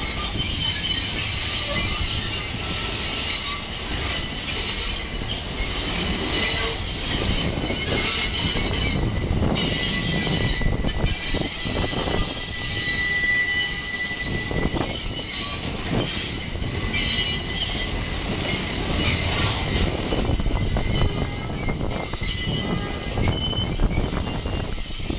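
New York City subway cars (R68/R68A) rolling slowly through the yard, their steel wheels squealing steadily against the rails on the curves, over a low rumble with occasional clacks at rail joints.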